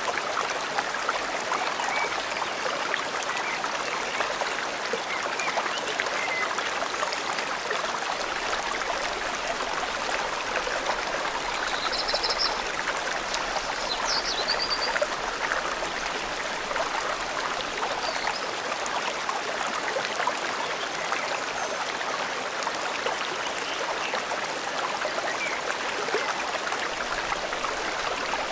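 River water flowing steadily, a continuous even rush. A few faint high bird chirps come through about halfway and again near the end.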